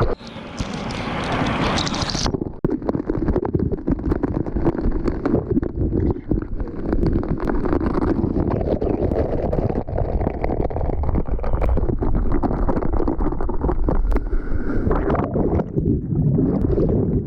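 Steady roar of rushing water from a waterfall, with wind buffeting the microphone. A brighter, higher hiss in the first two seconds.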